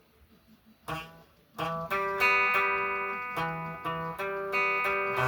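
Guitar being played: after a short pause, one strum about a second in, then from about a second and a half a run of strummed chords left to ring. It is a demonstration of how a chord part of the song goes.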